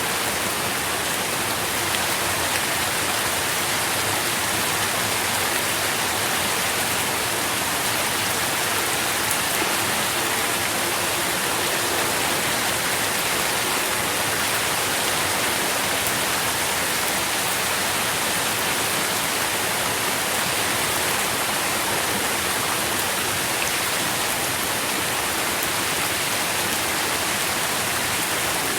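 Steady rain falling on leaves and ground, a dense even patter with no let-up.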